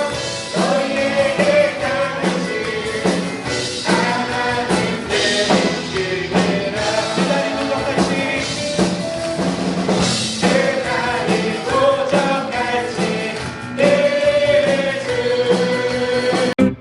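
Christian worship song sung by a praise team: group vocals over a band with a steady beat, cutting off abruptly near the end.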